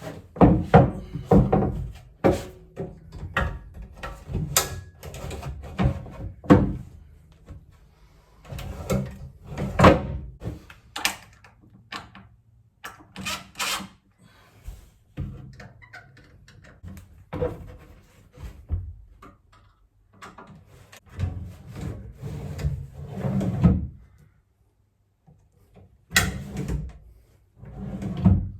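Irregular wooden knocks and thuds from boat floor-building work, with a short break near the end where the sound cuts off suddenly for about two seconds before the knocking starts again.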